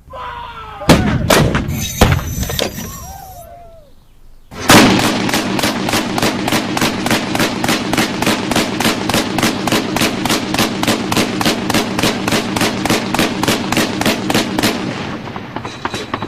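Gunfire sound effect: a few scattered single shots with falling whining tones, then after a brief pause a long burst of automatic fire, evenly spaced at about four rounds a second for some ten seconds before it stops.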